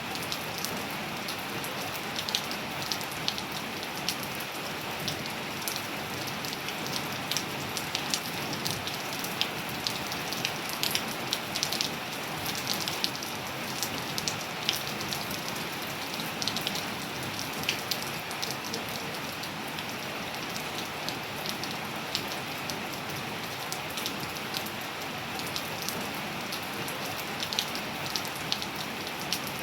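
Steady rain falling on surfaces, an even hiss with many distinct drops pattering close by.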